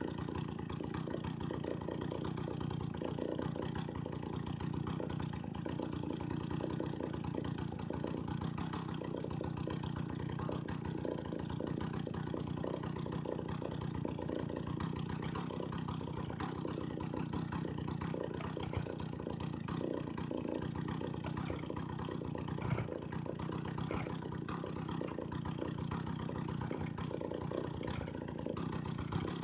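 Two-stroke chainsaw engine running steadily at an even speed, without revving.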